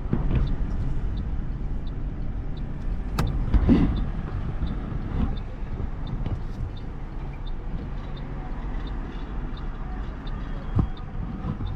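Car driving in traffic, heard from inside the cabin: a steady low engine and road rumble with a faint, even ticking about twice a second. A brief louder knock comes a little over three seconds in.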